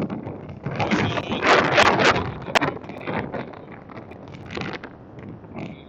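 Wind gusting over the microphone, a rushing noise that surges and fades unevenly, strongest a second or two in.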